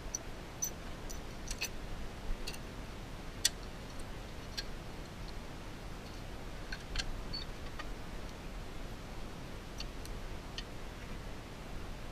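Scattered, irregular light clicks and taps of small tools or parts being handled, with one sharper click about three and a half seconds in, over a low steady hum.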